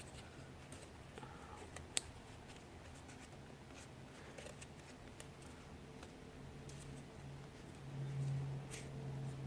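Faint handling of a sheet of paper being folded and creased by hand, with small ticks and one sharp tap about two seconds in. A steady low hum comes in near the end.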